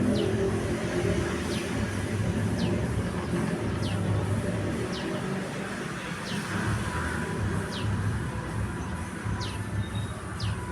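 Steady low rumble of traffic, loudest at the start and easing off. Over it, a short, thin, high chirp sliding downward repeats about once every second and a bit, typical of a small bird's call.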